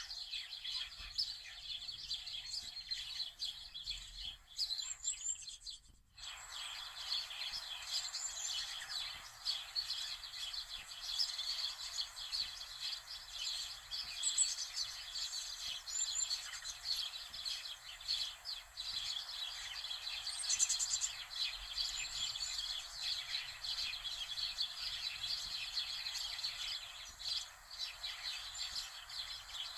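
Many small birds chirping and singing at once in a continuous dense chorus, broken by a sudden brief gap about six seconds in.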